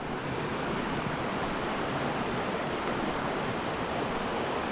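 Steady rush of water from a waterfall stream pouring into a natural pool, an even hiss-like roar that holds constant.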